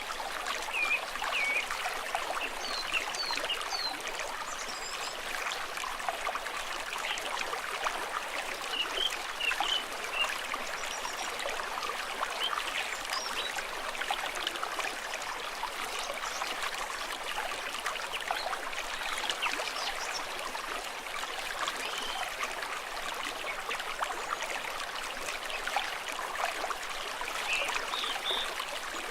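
Shallow stream water running and trickling in a steady, bubbly flow.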